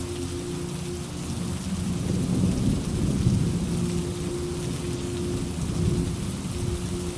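Steady rain with a rolling rumble of thunder that builds about two seconds in, peaks near the middle and dies away toward the end.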